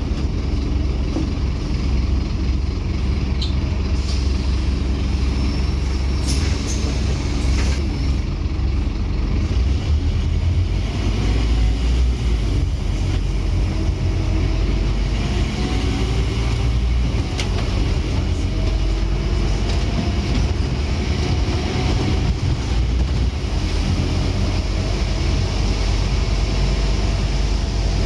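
Scania N230UD Omnicity double-decker bus, its five-cylinder Scania diesel running under way with a heavy, steady low rumble. A faint whine rises in pitch several times in the second half, and there are a few light rattling clicks early on.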